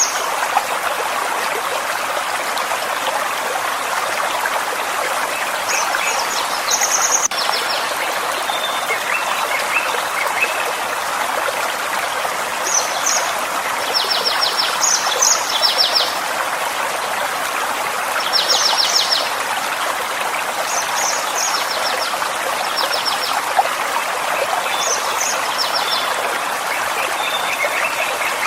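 Forest stream babbling steadily, with a small bird singing short, high, rapid trilled phrases over it, repeated every few seconds.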